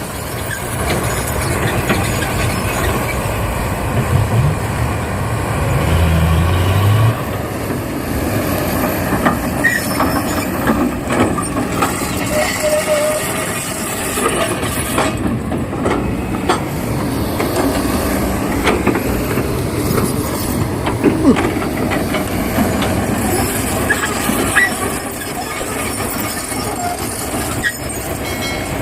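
Heavy diesel machinery working: an excavator and a soil-hauling dump truck running steadily, with many repeated metallic clanks and rattles.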